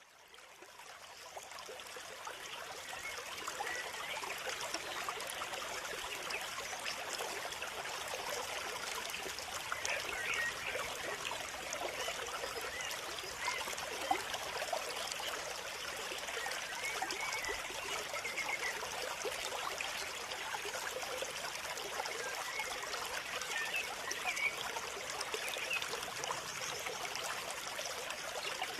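Flowing water, a small stream trickling steadily, fading in over the first few seconds.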